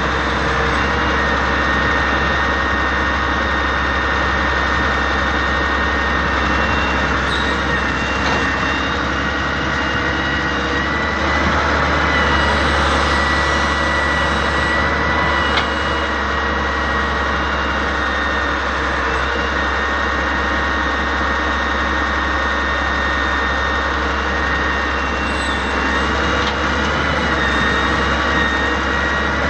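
Excavator's diesel engine running steadily, with a continuous high whine over the engine sound.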